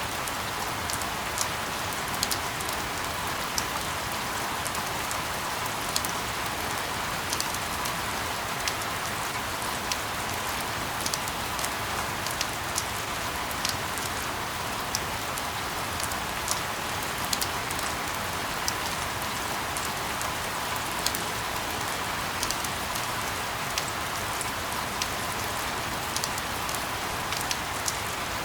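Steady rain: an even hiss with frequent sharp clicks of individual drops striking.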